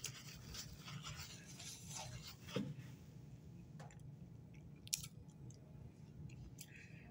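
Faint chewing of a mouthful of soft cookie, with a few light clicks and taps from the plastic tray being handled, the sharpest about five seconds in.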